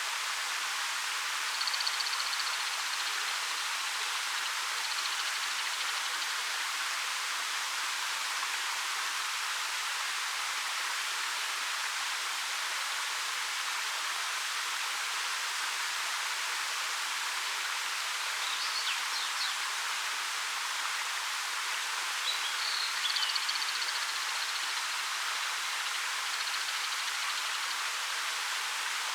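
Steady, even rush of a waterfall about 13 m high. A few faint, short, high bird calls come over the water noise about two seconds in, again around 19 seconds, and around 23 seconds.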